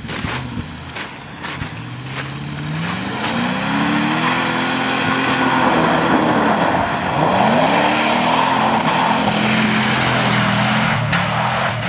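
Cadillac 4.9-litre V8 revving hard under acceleration on a muddy track. The engine note climbs, dips once about seven seconds in and climbs again, while the tyres spray mud and slush with a hiss in the middle of the run.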